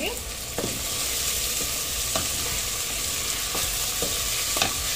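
Chopped onion and tomato sizzling steadily in oil in a pressure cooker as the tomato fries soft. A wooden spatula stirs it, scraping and knocking against the pot a few times.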